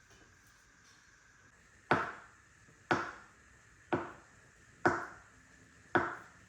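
Five sharp knocks, about one a second, each with a short ringing tail: a hard object striking a hard surface.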